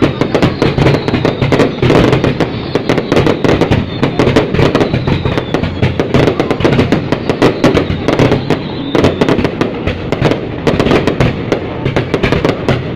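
Fireworks going off in a dense, continuous crackle of rapid sharp bangs.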